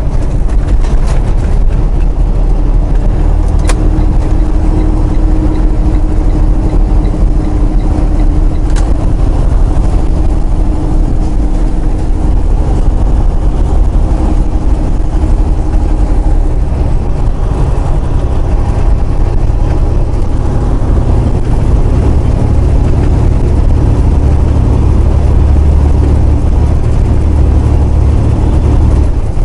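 Inside a semi-truck's cab while driving: a steady low engine drone mixed with road noise.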